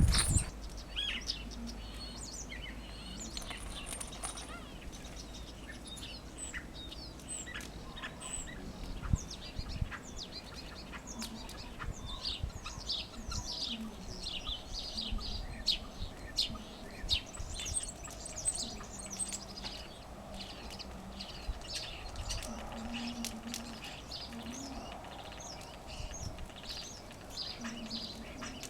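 Common starling singing: a long, varied run of quick chirps, clicks and whistles.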